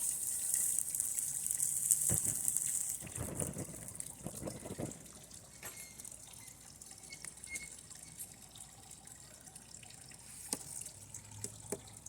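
Circuit board burning under high current from a lead-acid battery: a high hiss for about the first three seconds, then scattered small crackles.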